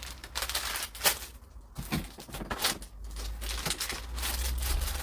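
Plastic packaging crinkling and rustling as small packets of craft supplies are handled, with scattered small clicks.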